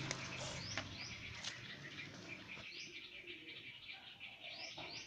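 Small birds chirping in the background, a steady chatter of many short, rising chirps.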